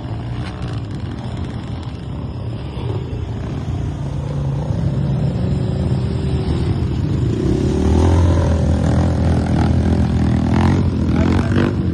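Off-road vehicle engine working hard under load, growing steadily louder and revving up over the second half.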